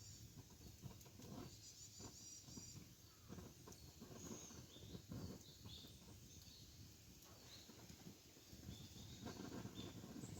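Wood fire crackling softly with scattered small pops, while birds chirp now and then in the background.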